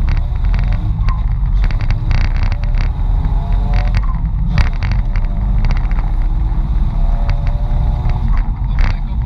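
Mitsubishi Pajero 4x4 driving, heard from inside: a steady low rumble of engine and drivetrain, with frequent sharp knocks and rattles and faint whines that rise and fall with the revs.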